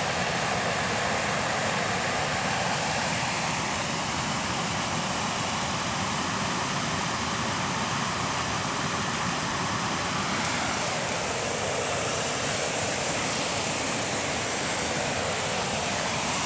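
Steady rushing water, an even roar with no breaks.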